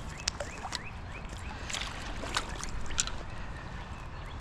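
River water sloshing and splashing, with many small sharp splashes and ticks scattered through, over a steady low rumble of wind on the microphone.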